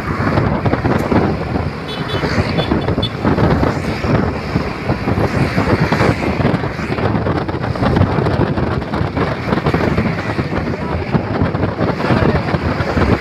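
Steady traffic noise of road vehicles with wind buffeting the microphone.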